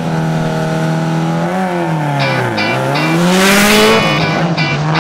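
Rally car engine running hard, its note falling about one and a half seconds in and then climbing again, mixed with music that has a steady beat.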